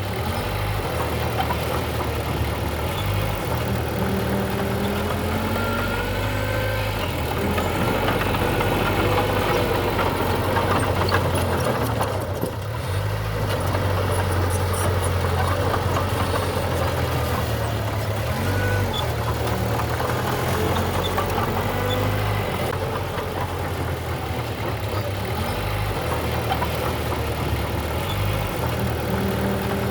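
Diesel engine of heavy earthmoving machinery running continuously, its low note stepping up and down every few seconds as the engine speed changes, with a brief dip about twelve seconds in.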